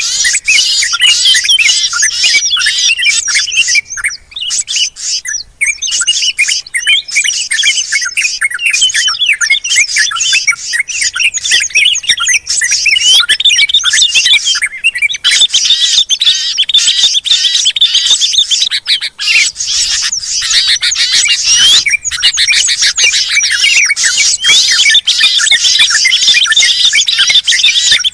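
Many small songbirds chirping, twittering and trilling over one another in a dense, busy chorus with only brief lulls. This is the agitated 'burung ribut' mix used as lure audio to draw wild birds down.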